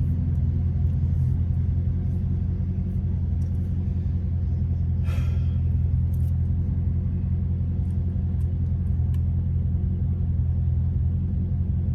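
Steady low rumble of a car engine, with a brief hiss about five seconds in.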